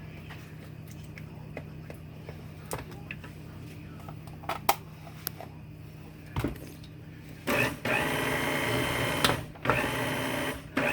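Small countertop blender pulsed in short runs while blending thick butternut squash soup: a brief burst, then two longer runs of a second or two each, in the last third. Before the runs there is only a low hum with a few light clicks.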